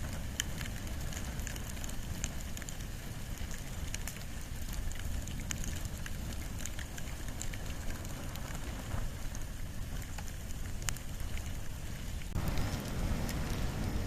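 A wood and bamboo fire burning, with scattered sharp crackles and pops over a low steady rumble of flame. About 12 seconds in, the hiss of the fire suddenly grows louder.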